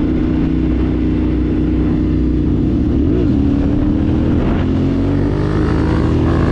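T7 tractor's diesel engine running steadily under way. About three seconds in the note wavers, then it settles at a slightly higher pitch.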